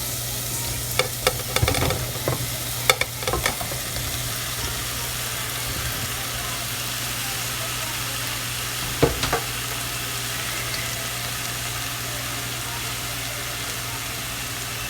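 Chilli chicken sauce sizzling in a frying pan as fried chicken pieces go in and are stirred, with a cluster of utensil knocks against the pan in the first few seconds and another about nine seconds in.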